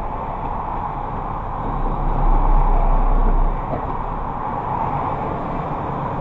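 Steady road and engine noise of a vehicle driving, as heard by its dashcam, with a low rumble that grows louder for about a second and a half in the middle.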